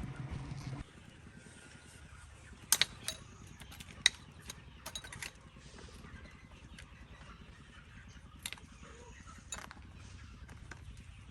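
An engine running steadily cuts off abruptly about a second in, followed by scattered sharp metallic clicks and clanks of hand tools working on metal, the loudest two a little over a second apart.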